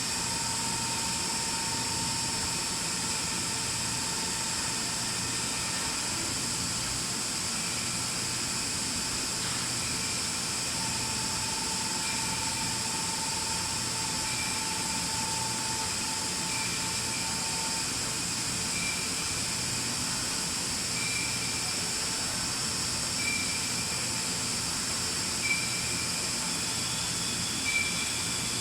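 Nakamura-Tome Super NTM3 CNC lathe running a program under power: a steady machine hiss with high whining tones. In the later part, short chirps repeat about every two seconds.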